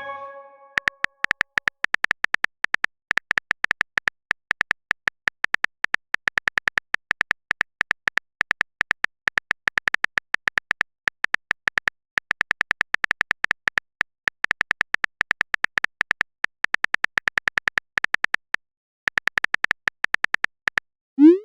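Smartphone keyboard typing sound effect: rapid, irregular clicks, about eight to ten a second, with a short pause near the end and a brief rising swoosh right at the end.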